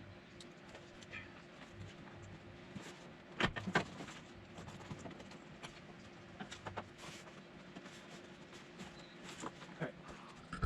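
Scattered small clicks, taps and rustles of hands working inside a truck door, pressing a wiring cable into place with double-sided tape, with two louder knocks about three and a half seconds in. A faint steady hum runs underneath.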